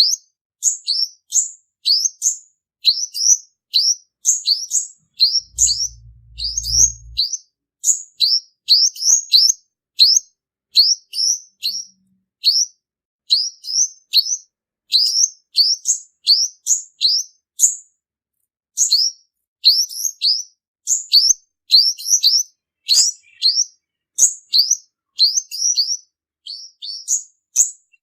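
Male purple-throated sunbird calling: a steady run of short, high, sharp chirps, about two to three a second, broken by one brief pause past the halfway point. This is the male call used as a lure for trapping.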